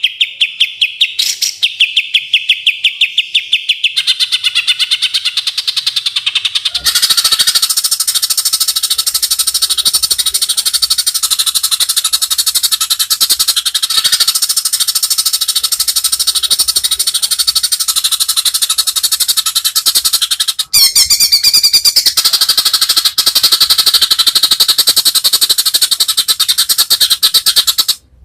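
A songbird's fast, repeated high chatter of clicking notes. After a short pause it is followed by a loud, dense, buzzing rattle-trill that runs on unbroken, with a brief break about twenty seconds in.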